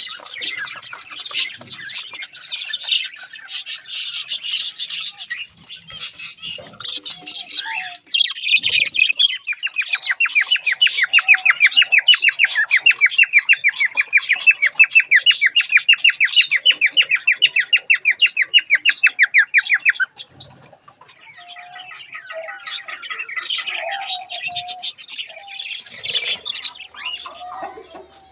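Many small cage birds in an aviary chirping and twittering together. For about ten seconds in the middle, one fast, even run of repeated notes stands out above the rest and then stops abruptly.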